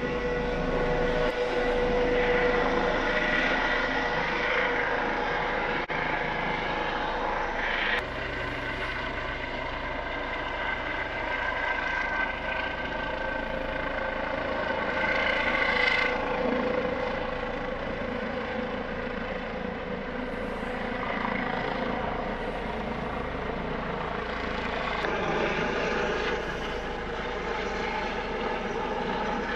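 Helicopter engine and rotor running steadily at close range, a turbine whine over rotor noise, with a few abrupt changes in the sound.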